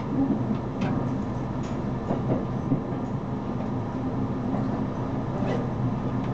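Electric commuter train running along the line, heard from inside the passenger car: a steady low rumble of wheels on rail, with a few faint clicks.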